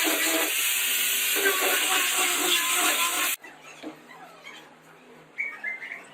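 An electric woodworking power tool running at full speed, a loud even noise that cuts off abruptly about three and a half seconds in, leaving a faint low hum and a few light knocks.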